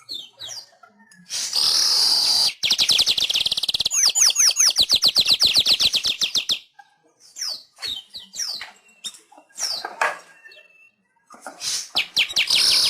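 Manyar (weaver bird) singing. A harsh, wheezy burst is followed by a fast chatter of about ten short falling notes a second, lasting some four seconds, then scattered short notes. Another harsh, wheezy burst comes near the end.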